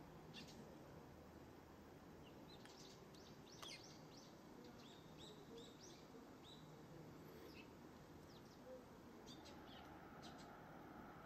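Faint chirps of small birds, scattered short calls over a quiet, steady outdoor background hum.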